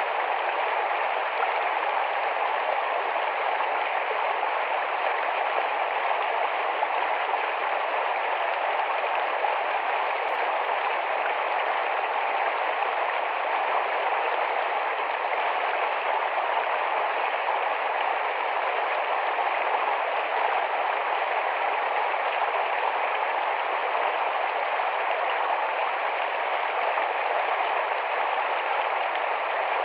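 Small, rapid forest stream rushing and splashing over rocks, a steady even rush of water.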